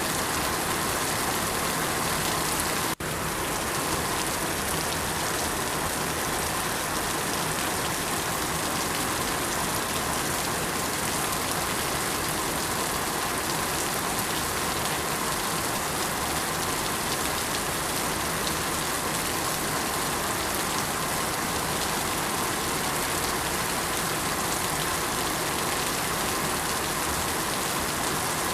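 Steady rain falling, an even hiss of drops with a split-second gap about three seconds in.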